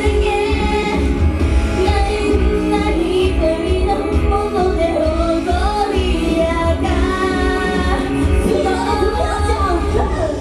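Japanese idol pop song performed live: high female voices singing over a loud backing track with a heavy, steady bass beat.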